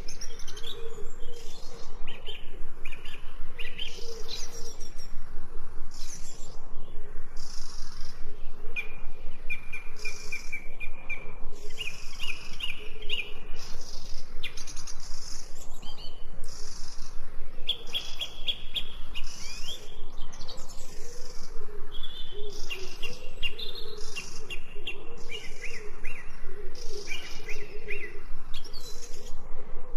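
Several songbirds chirping and singing: many short high chirps and repeated trilled phrases overlap continuously, with a fainter low wavering sound underneath.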